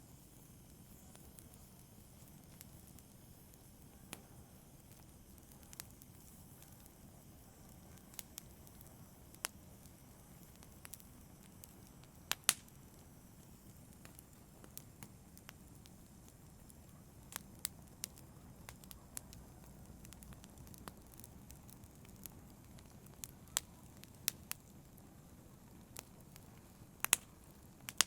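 Campfire burning, a low steady hiss and rumble with sharp irregular crackles and pops scattered throughout, a few louder pops about twelve seconds in and again near the end.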